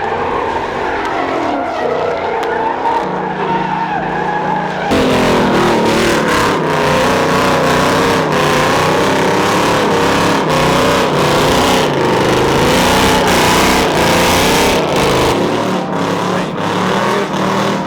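Car tires squealing under a revving engine as a car spins its wheels, getting louder about five seconds in.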